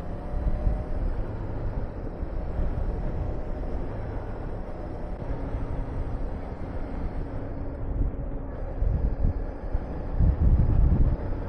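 Honda VTR250's 250 cc V-twin engine running on the move, with heavy wind rushing over the microphone; the wind buffeting gets louder and gustier near the end.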